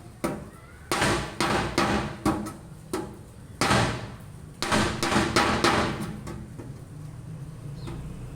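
Tin cans banging and clattering in a run of sharp, ringing knocks that come in several bursts, loudest in the middle, and fade out after about six seconds.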